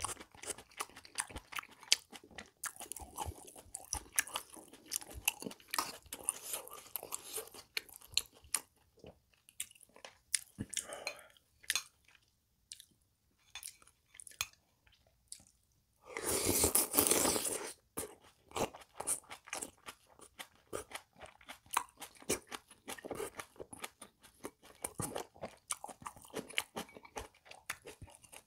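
Close-miked chewing and crunching of pork kimchi stew (pork, fat, kimchi and tofu), made up of many small wet clicks and crunches. The chewing goes quieter for a few seconds a little before the middle, and about two-thirds through there is one louder rush of noise lasting under two seconds.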